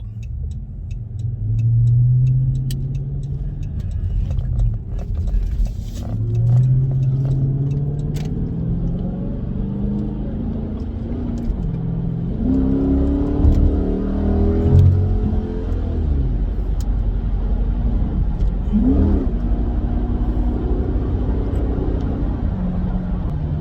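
Chrysler 300S's Hemi V8 accelerating hard through the gears: the engine's pitch climbs and drops back at each shift several times, then settles into a steady drone for the last couple of seconds.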